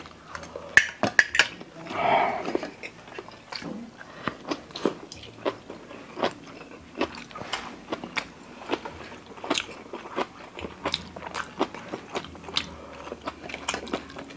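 Close-miked eating sounds: wet chewing and lip smacks from people eating spicy instant noodles, a few short clicks a second, with a brief louder sound about two seconds in.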